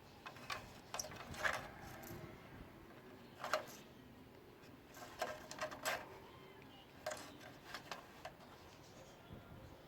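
A cat running in a frenzy of zoomies, its paws and claws clattering and scrabbling on the floor in short, irregular bursts.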